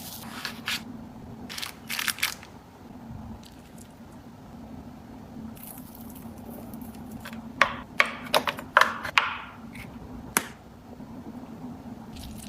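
Food packages and containers being handled and set down: scattered clicks, taps and short crinkles, with a busy run of them about eight to nine seconds in, over a low steady hum.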